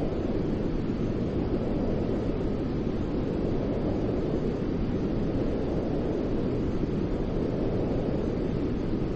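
Steady white noise for baby sleep: an unchanging, even hiss that is weighted toward a deep rumble.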